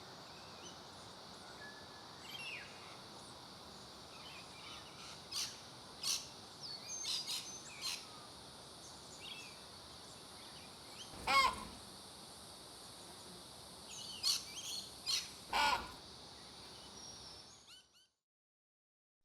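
Outdoor birdsong: scattered short chirps and calls from several birds, with one louder falling call about eleven seconds in, over a steady high-pitched hiss. The sound drops to dead silence near the end.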